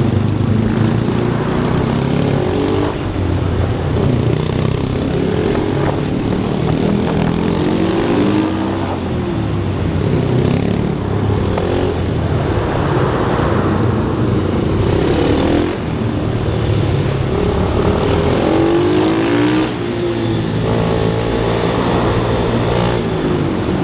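Pit bike engines on a track, several overlapping, each rising and falling in pitch as they rev through the gears and back off for corners.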